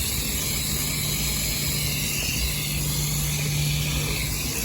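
Garden hose spraying water onto an HVAC unit's coils, an even steady hiss, over a steady low machine hum.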